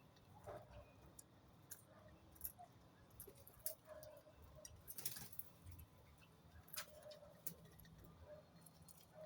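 Near silence with scattered faint ticks and clicks and a few brief, low chirps from birds.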